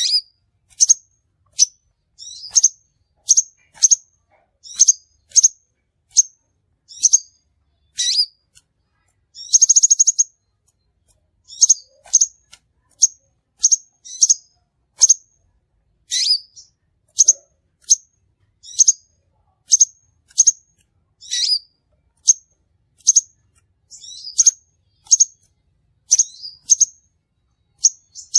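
Crimson sunbird calling: a steady run of short, sharp, high chirps, one or two a second, with a brief buzzy trill about ten seconds in.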